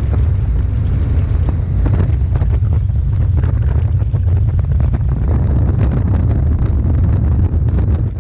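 Robinson R44 helicopter in flight with a door off: a steady low drone of rotor and engine, with wind buffeting the microphone in uneven gusts.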